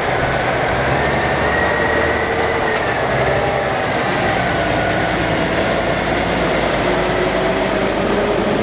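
Heavy trucks driving past in a parade: diesel engines run steadily, with whining tones that slowly rise and fall in pitch as the trucks move by.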